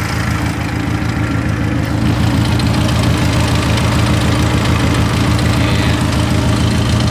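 Turbocharged Jeep engine idling steadily with heavy crankcase blow-by, the sign of a worn engine, which the owners put down to running it on 87 octane with no tune.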